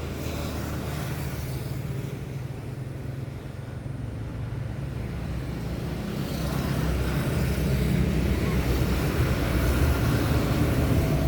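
A motor vehicle's engine running, a steady low hum that grows louder about six and a half seconds in.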